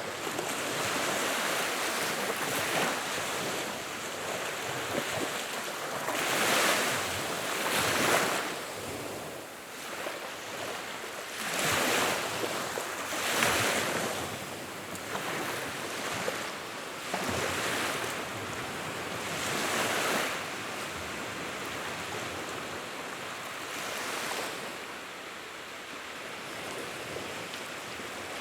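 Wood fire burning: a steady rushing noise that swells and fades every few seconds, with faint crackles.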